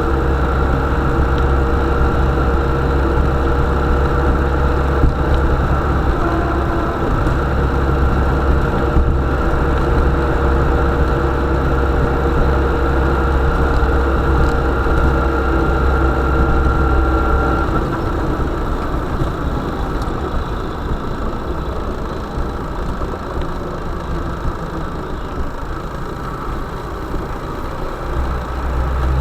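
A vehicle engine running steadily at an even speed. About eighteen seconds in its steady hum drops away into a lower, rougher sound.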